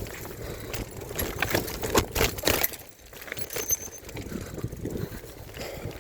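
A mountain bike riding over a rough dirt trail: irregular rattles and knocks from the bike and its handlebar phone mount over a rushing noise, easing briefly about halfway.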